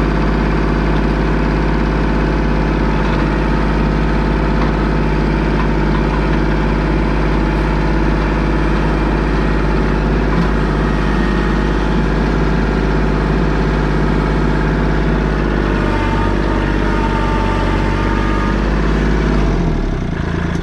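A vehicle engine running steadily at idle, with a strong low drone. Its tone changes slightly about three-quarters of the way through, and the sound fades away near the end.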